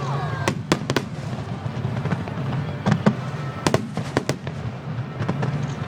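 Aerial fireworks bursting in an irregular series of sharp bangs and cracks, with a quick cluster of several bangs around three to four seconds in.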